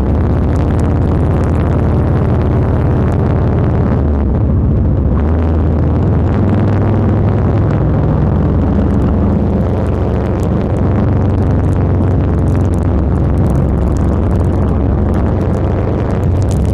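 Motorcycle engine running steadily while cruising at about 30 mph, heard from a camera mounted behind the windscreen.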